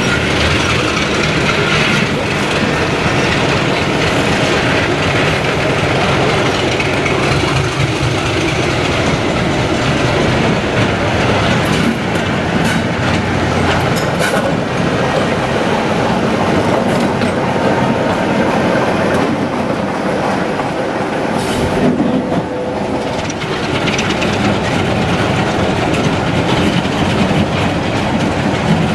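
Diesel locomotive working a train, its engine running steadily with wheels clicking over rail joints.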